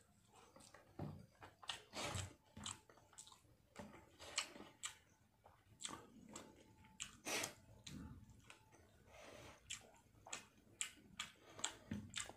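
A person chewing a mouthful of rice and fish eaten by hand, with irregular wet mouth smacks and clicks.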